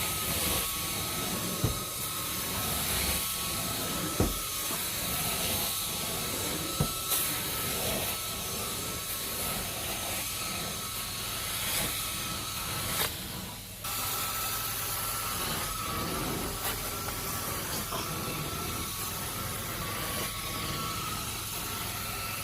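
Vacuum cleaner running over heavily soiled carpet with a steady motor whine, crackling and clicking as grit and debris are sucked up; the sound briefly drops about 13 seconds in.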